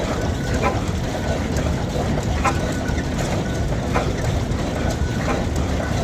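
A vintage engine running steadily with a low rumble, and a sharp click every second or so.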